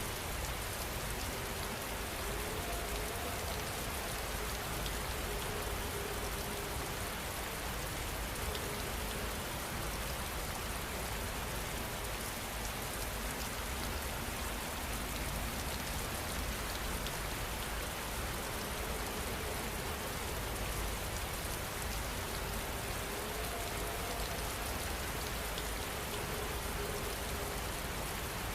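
Steady rain falling, a continuous even hiss of drops landing on surfaces.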